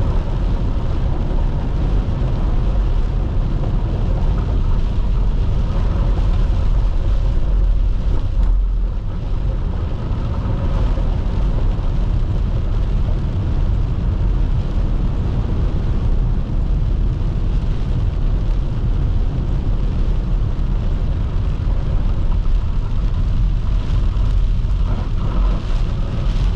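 Steady engine and road noise of a car being driven, with a brief dip about eight and a half seconds in.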